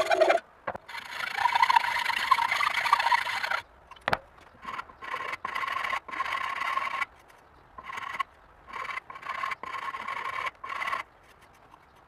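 A hand tool scraping across a workpiece in repeated strokes: one long stroke of about three seconds, then a run of shorter ones with pauses between, carrying a thin, steady squeak.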